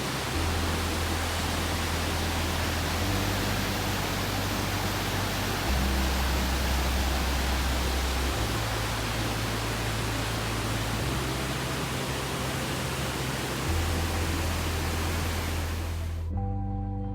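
Steady roar of the Sogi Falls waterfall, a dense rush of falling water, over slow background music with low held notes. The water sound cuts off suddenly near the end, leaving only the music.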